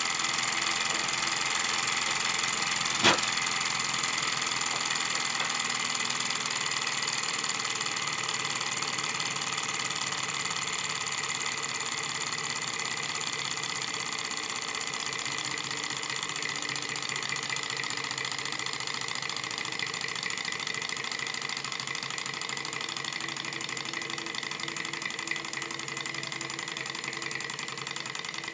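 Small alpha-type Stirling engine with an attached dynamo running steadily: a continuous mechanical hum carrying several steady high tones, getting slightly quieter over time. One sharp click about three seconds in.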